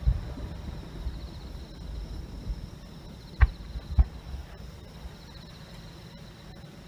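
Fireworks: the rumble of a burst dying away, then two sharp bangs about half a second apart near the middle. Insects chirp steadily in the background.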